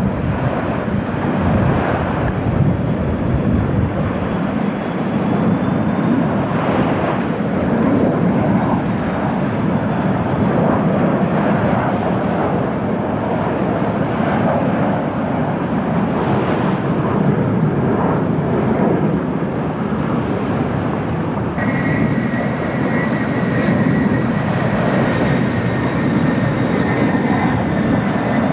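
Airliner engines running, a steady loud rush with a high whine that comes in about two-thirds of the way through.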